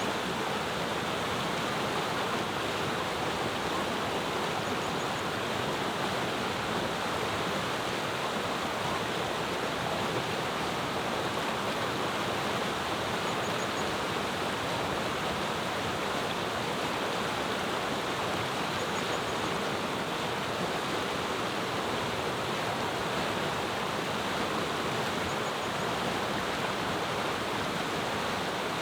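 Mountain river flowing: a steady rushing murmur. A faint, high, brief bird call of a few quick notes comes about every six seconds.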